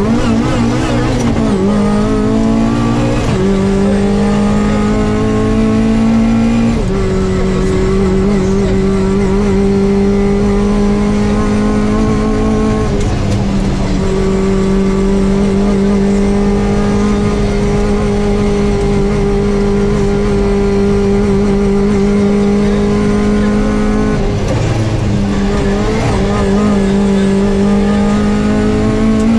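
Toyota Corolla AE86 rally car's twin-cam four-cylinder engine heard from inside the cabin, held at high revs under full throttle. The revs dip briefly about five times as the driver changes gear or lifts, then pick up again.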